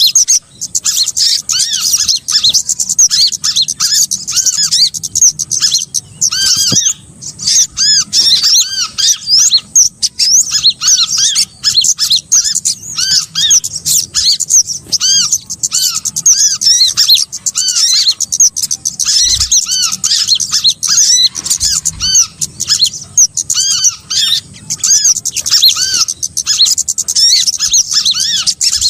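Bird-trapping lure recording of a chorus of small songbirds calling. Many short, high, arched chirps overlap and repeat rapidly and without a break.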